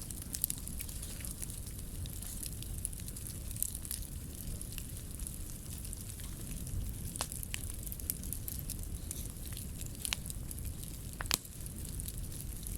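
Scrap-wood bonfire burning, with scattered crackles and sharp pops over a low steady rumble; the loudest pop comes near the end.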